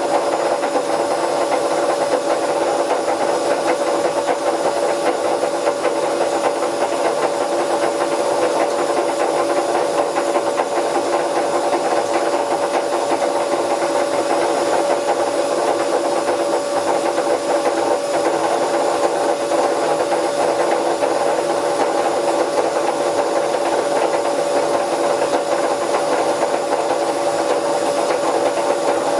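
Bauknecht WA Plus 844 washing machine running steadily, a constant whine over a rushing, rattling noise from the turning drum. This is the sound of failed drum bearings.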